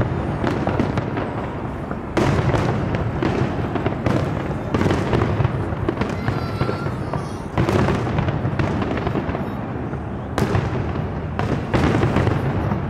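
Fireworks display going off: a loud bang every two to three seconds, with continuous crackling and low rumbling between the bangs.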